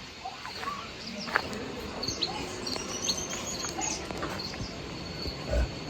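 A bird chirping: a quick run of short, high repeated notes in the middle, with a few scattered clicks around it.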